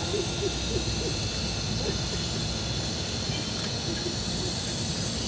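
Steady hiss and buzz of a TIG welding arc, even throughout, with a few short low hoot-like notes in the background.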